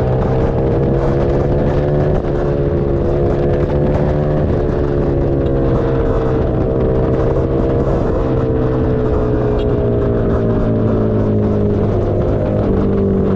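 Keeway SCR 250 V-twin engine running through a Racefit free-flow exhaust, held at a fairly steady speed. Its pitch sags slowly and rises again several times.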